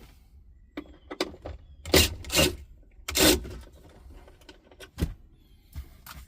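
Car dash trim being pulled and worked loose by hand: a few short scraping rustles and knocks, the loudest about two to three and a half seconds in, and a sharp knock near five seconds.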